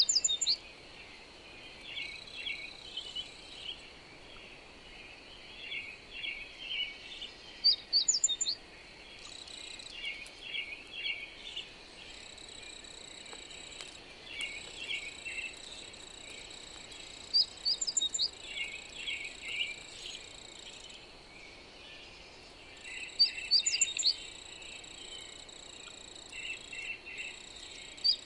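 Songbirds singing: a loud phrase of quick, sharp high notes repeats every six to nine seconds over frequent softer chirping. A steady high insect trill runs underneath, over a faint even hiss.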